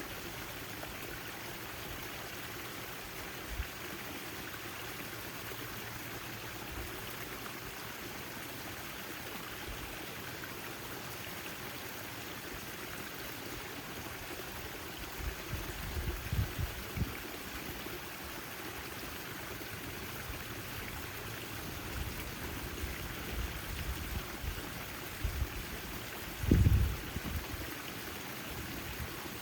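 Backyard garden fountain splashing and trickling steadily. A few brief low rumbles break in, the loudest near the end.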